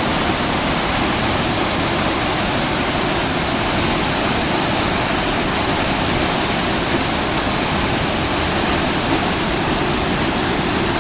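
Water pouring from Urayama Dam's outlets during an emergency flood release: a steady, unbroken rush of falling water.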